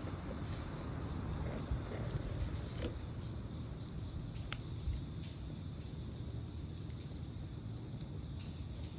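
Campfire burning with a steady low rush, broken by a few sharp crackles and pops, most of them in the first half.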